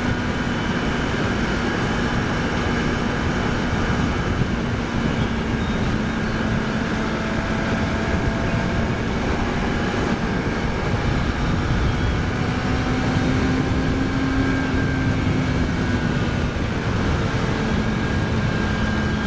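2006 Kawasaki ZX-6R 636 inline-four engine running at a steady cruise over wind rush, its pitch rising a little about two-thirds of the way through and then settling back.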